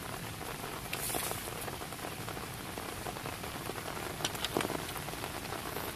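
Heavy rain falling steadily, with a few short sharp taps about a second in and again between four and five seconds.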